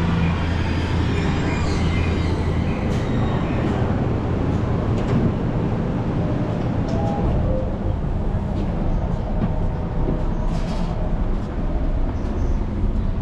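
Electric commuter train standing at a station platform with its doors open: a steady low hum from the train over the noise of the station. The hum eases a few seconds in, and a few light knocks follow.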